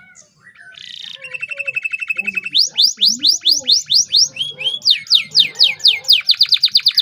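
Domestic canary singing a long, loud song. It opens with a fast buzzy trill, then runs into a series of quick rising whistled sweeps, several a second, that get faster near the end and stop abruptly.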